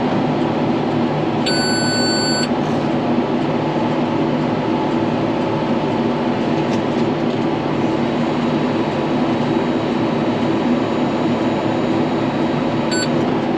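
Tractor engine and round baler running steadily, heard from inside the tractor cab, with the baler monitor beeping for about a second near the start and once briefly near the end: the alarm that the bale chamber is full.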